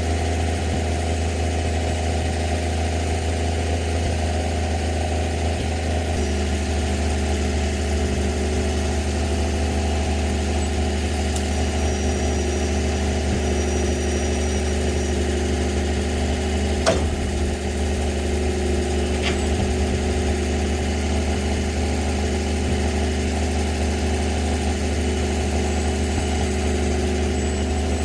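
Winch truck's engine idling steadily, its note shifting slightly about six seconds in, with a single sharp knock about seventeen seconds in.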